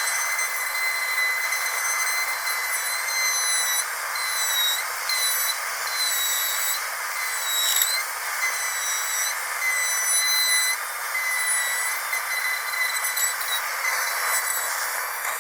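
Dentist's drill running with a steady high-pitched whine over a hiss, the pitch dipping briefly a few times.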